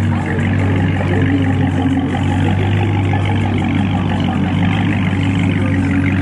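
Car engine running steadily with a deep, even drone that holds the same pitch throughout.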